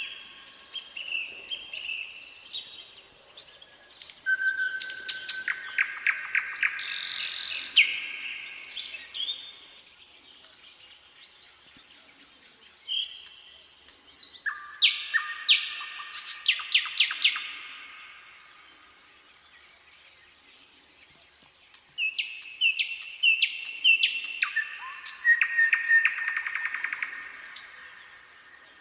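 Nightingale singing: three song phrases separated by pauses of a few seconds, each a fast run of repeated notes, clicks and clear whistles.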